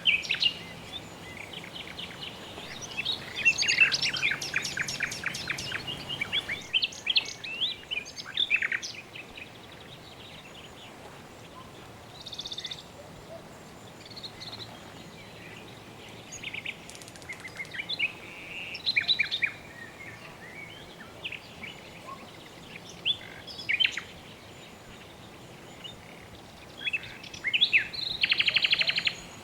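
Songbirds chirping and trilling in scattered bouts, with fast rapid-note trills a few seconds in and again near the end, over a faint steady background hiss.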